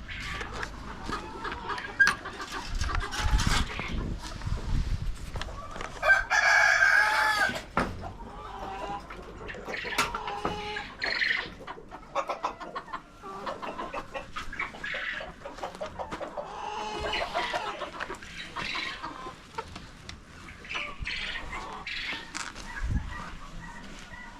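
Chickens clucking and calling, with one loud drawn-out call about six seconds in, over many short clicks and knocks.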